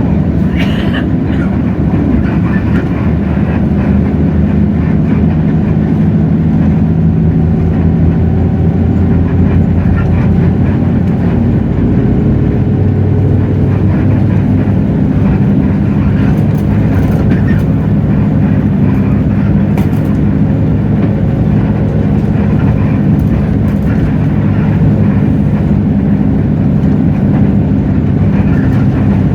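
Hino J08E-VN inline-six turbo diesel engine of a city bus running steadily, heard from inside the bus cabin, its low pitch shifting a little with engine speed.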